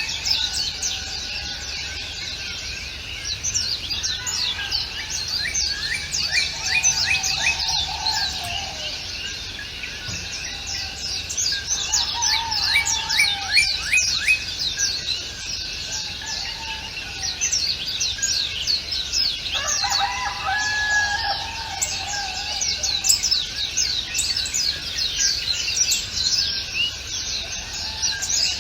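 A chorus of many small birds chirping and singing without pause, quick high notes tumbling over one another. A lower call of about a second breaks in a few times.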